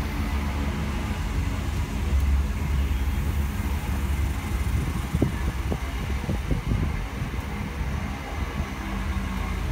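Electric multiple unit passing close by on the track beside the platform: a steady low rumble of wheels and running gear with a faint hum. About halfway through comes a short run of sharp clacks as the wheels cross rail joints or points.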